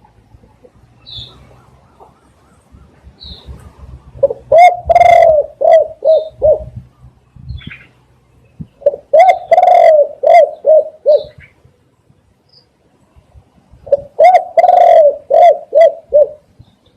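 Spotted dove cooing loudly in three song phrases about five seconds apart. Each phrase is a few short coos around one long drawn-out coo. Faint high chirps of small birds come in the gaps.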